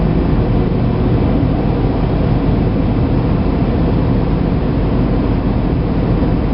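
Automatic car wash working over the car, heard from inside the cabin: a loud, steady wash of spraying and scrubbing noise with a low hum underneath.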